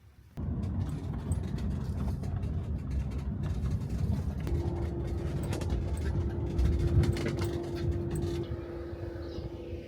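Motor vehicle running, a steady low rumble that cuts in suddenly just under half a second in, with a steady hum joining about halfway through.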